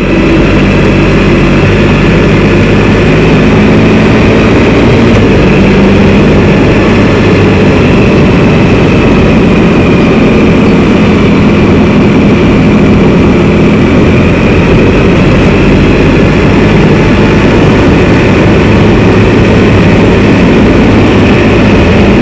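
Can-Am Spyder three-wheeled motorcycle on the move at a steady speed: a loud, even engine drone mixed with road and wind noise.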